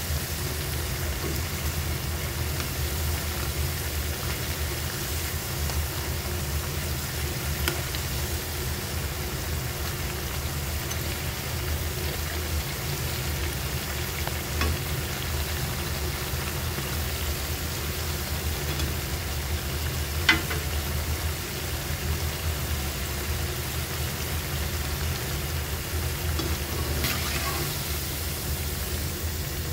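Potato and onion pakoras deep-frying in hot oil in a wok, sizzling steadily as a slotted spatula stirs and turns them, over a steady low hum. A single sharp knock about two-thirds of the way through, the spatula striking the wok.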